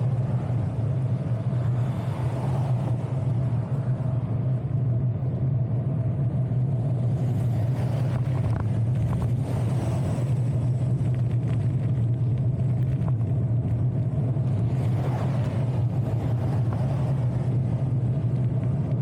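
Steady low rumble of riding a bicycle along a road: wind and road noise on the camera microphone, with a few faint clicks about halfway through.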